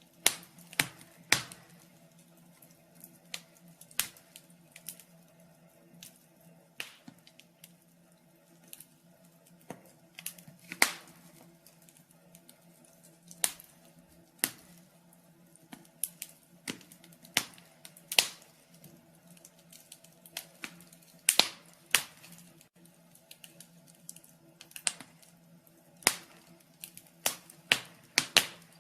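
Burning firewood crackling and popping: irregular sharp snaps, a few much louder than the rest, over a faint steady low hum.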